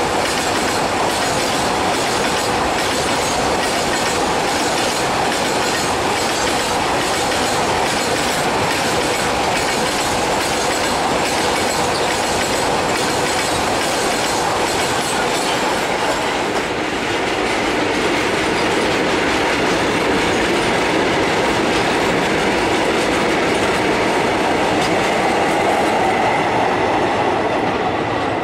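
Open-top freight wagons of an Indian Railways goods train rolling past close by: a steady rumble of steel wheels on rail with a rhythmic clatter over the rail joints.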